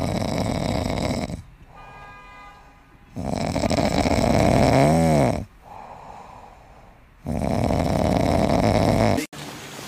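A sleeping kitten snoring: three long, loud snores about three and a half seconds apart, with quieter breathing between them. The middle snore carries a wobbling pitched tone.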